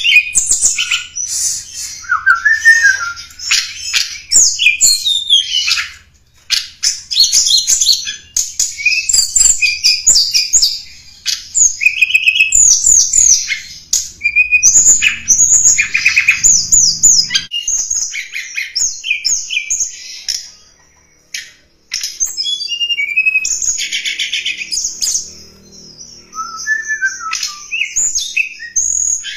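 Tledekan gunung songbird singing a lure song: rapid, varied high chirps and twittering trills in phrases a few seconds long, with short breaks between them.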